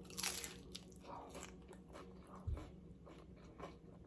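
A loud, crisp bite into a nacho chip, then chewing with a run of smaller crunches, close to the microphone. A short, soft low thump comes about two and a half seconds in.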